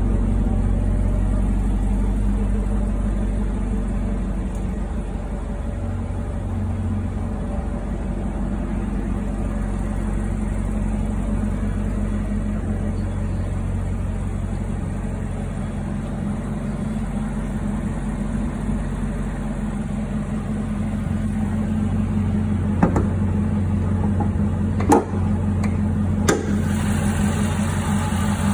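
Chevrolet Camaro ZL1's supercharged 6.2-litre LT4 V8 idling steadily. Three sharp knocks come near the end.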